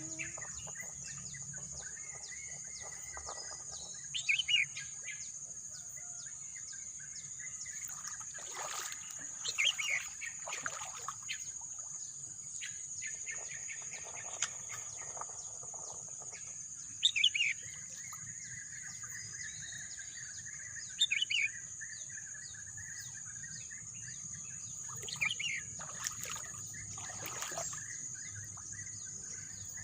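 Birds chirping outdoors: one bird repeats a short, quick phrase of a few high notes about every four to five seconds, over a steady high-pitched hiss.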